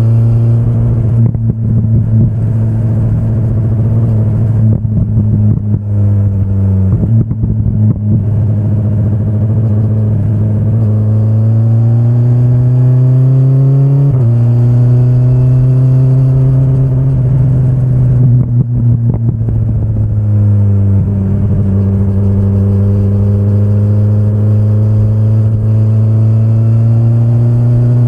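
2025 BMW S1000RR's inline-four engine running under way. Revs climb steadily, drop sharply with a gear change about halfway through, ease off briefly about two-thirds in, then build slowly again.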